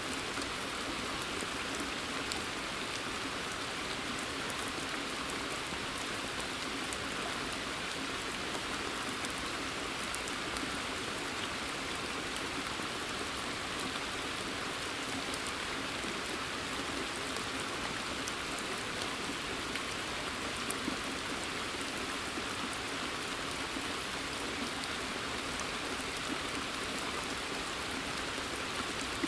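Steady rain falling on a forest and on a pond's surface, a dense even patter of many small drops.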